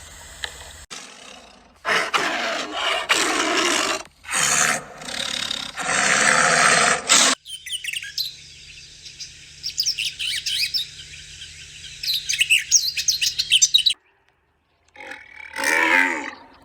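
Birds chirping rapidly for about six seconds in the middle, after a stretch of loud, rough noise that has no clear source. Near the end a goat bleats once.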